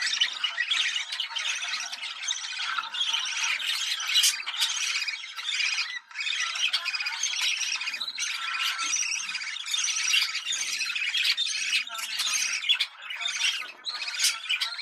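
Budgerigars chattering, warbling and squawking without pause in a dense, overlapping stream of calls.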